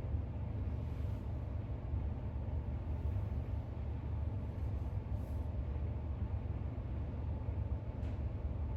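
Steady low background rumble, with a few faint, brief soft sounds over it: one about a second in, one about five seconds in, and one near the end.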